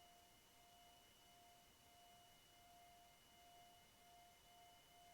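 Near silence: the audio has cut out, leaving only a faint steady electronic tone.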